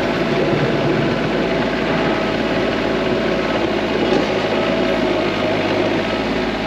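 TYM T25 compact tractor's diesel engine running steadily.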